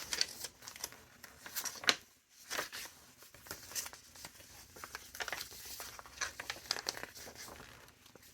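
Paper rustling and crinkling as the pages and tucked ephemera of a large handmade junk journal are handled and turned, in many short crackles, the sharpest about two seconds in.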